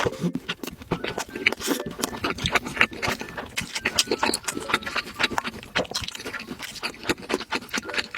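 A person chewing food close to the microphone, with dense, irregular wet mouth clicks and smacks.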